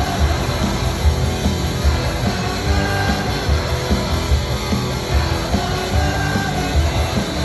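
Live indie rock band playing an instrumental passage: electric guitars, bass and drums with a steady beat, loud through the venue's PA.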